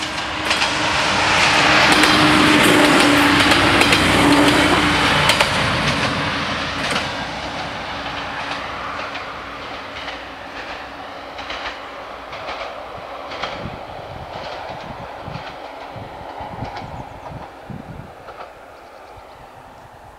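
Siemens Desiro diesel multiple unit passing over the level crossing. It is loudest a few seconds in, then fades away as it runs off, with wheels clicking over the rail joints.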